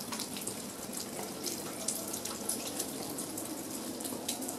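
Steady rain falling, a constant hiss of water with many small drops and drips.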